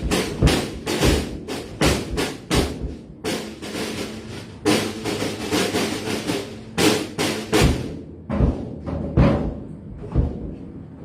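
Drum kit hit hard in a free, irregular pattern of fast strikes and fills with no steady beat. There is a brief break about four seconds in, and the strikes thin out near the end.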